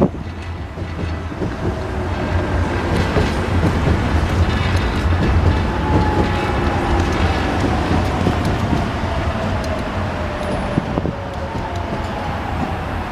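Subway train at the platform: wheels rumbling and clattering on the rails. Over the second half a whine falls slowly in pitch, as the train's motors slow down.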